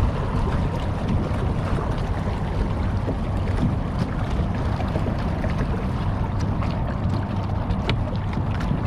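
Steady wind noise on the microphone, with water washing against a small boat's hull.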